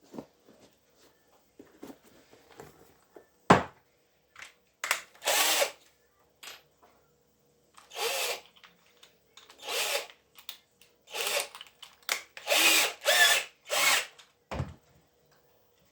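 A small power tool run in short bursts, several times in a row, with a couple of sharp knocks between them.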